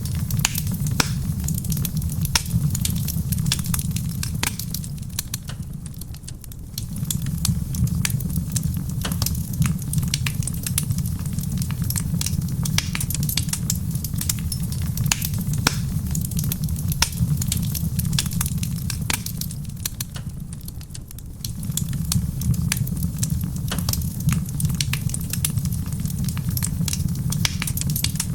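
Wood fire in a stone fireplace crackling, with frequent sharp pops and snaps over a low steady rumble; the rumble dips briefly twice.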